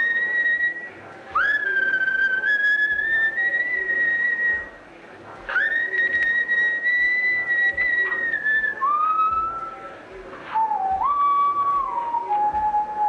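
Someone whistling a slow tune of long held notes, each one sliding up into pitch at its start; the later notes step lower, ending on a long low note.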